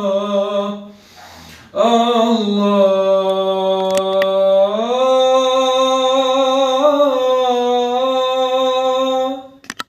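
A single voice chanting an Arabic religious nasheed in praise of the Prophet, drawing out long held notes. There is a short breath about a second in, the pitch steps up around the middle, and the last note ends just before the close.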